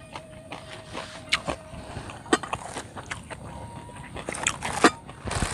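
Close-miked eating sounds: a mouthful of food being chewed, with a series of sharp mouth clicks and crunches at irregular intervals.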